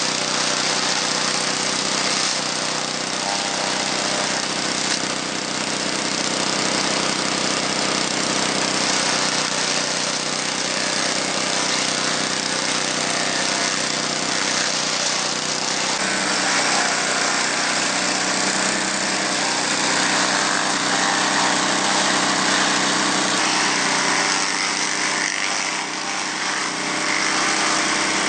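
Small petrol engine of a banana shredder running steadily, with the noise of its cutter chopping banana leaves and stems into fodder.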